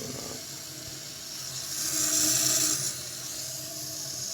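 Kohler Kelston toilet tank refilling: the fill valve hisses steadily as water runs in, growing louder for about a second midway.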